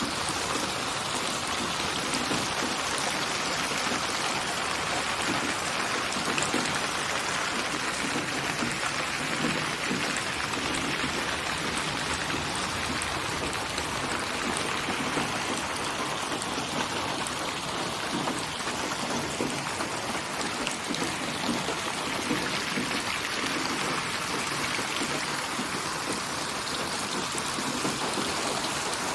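Steady rain falling on surfaces, a dense even patter of many drops with a light trickle of running water, mixed as a continuous rain soundscape for sleep.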